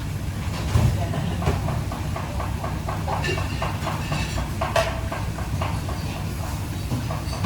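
Busy restaurant kitchen noise: a steady low rumble under a run of clatter and clinks of metal utensils and dishes, with one sharper clang about five seconds in.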